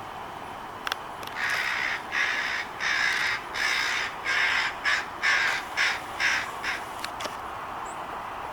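Crows cawing: a run of about ten caws in quick succession starting about a second in, the last few shorter. They are mobbing a red-tailed hawk.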